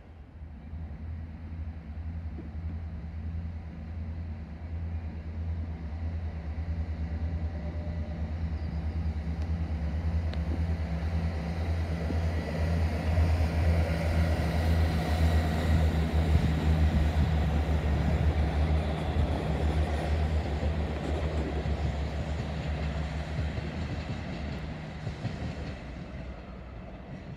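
Northern diesel multiple unit running past the platform: a low, steady engine drone with wheel and rail noise. It grows to its loudest about halfway through, then fades as the train draws away.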